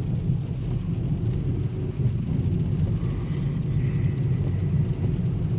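Steady low rumble of a car driving on a rain-soaked road, heard from inside the cabin.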